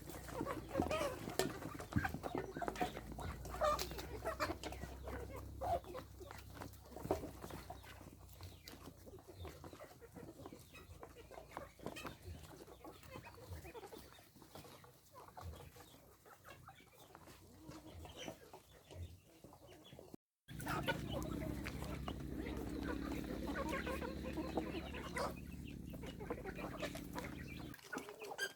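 Chickens clucking with irregular short calls. The sound cuts out briefly about two-thirds of the way through and resumes over a steady low hum.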